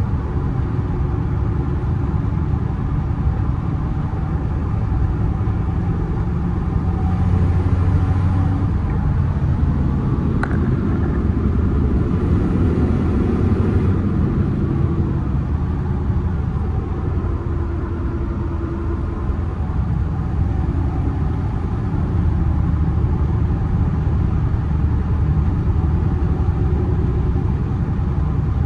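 1996 Toyota Tacoma pickup driving: a steady engine drone with road noise, the engine note shifting a few times as the load or speed changes.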